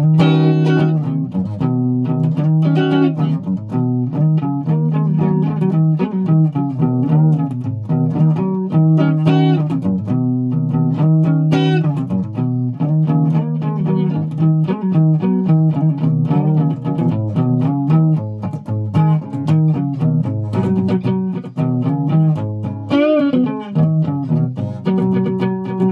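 Guitar played with a continuous run of plucked notes.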